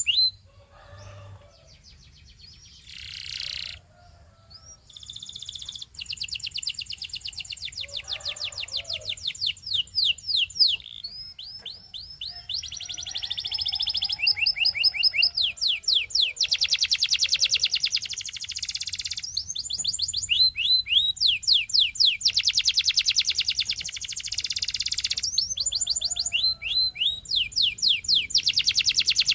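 Domestic canary singing: long, fast trills of rapidly repeated notes strung into rolling phrases. The song is sparse and softer for the first few seconds, then runs almost without a break and grows louder.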